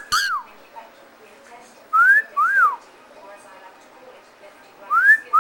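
A two-note wolf whistle, the first note gliding up and the second gliding down, given three times about two and a half seconds apart.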